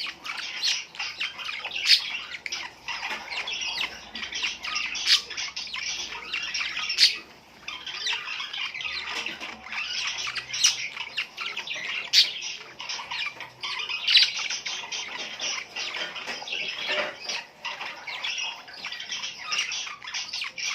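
Many small birds chattering and squawking together without a break, with sharp louder calls standing out every second or two.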